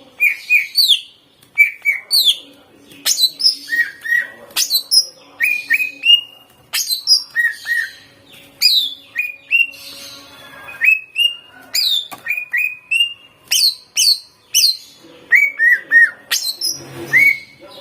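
A green leafbird (cucak ijo) singing hard without pause: a rapid run of short, sharp whistled notes, many sliding down in pitch, delivered in quick clusters.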